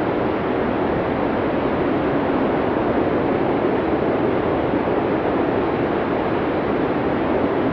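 Strong snowstorm wind blowing steadily, an even rushing noise without distinct gusts.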